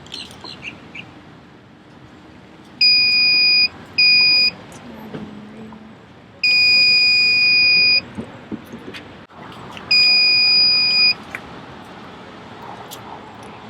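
Handheld electronic battery tester beeping four times, a steady high-pitched tone, the beeps of uneven length (short, shorter, long, long), while a weak car battery is tested, one that will read 'charge required'.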